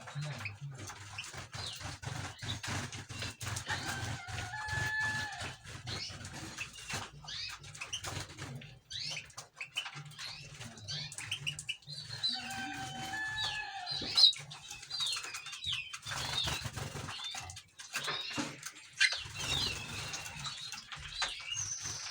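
Many small cage birds chirping and calling at once, with some short held whistled notes, wings fluttering and frequent small clicks and knocks, over a steady low hum.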